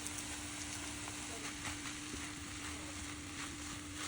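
Fried rice of rice, vegetables and egg sizzling in a frying pan, with light scattered scrapes and taps as it is mixed.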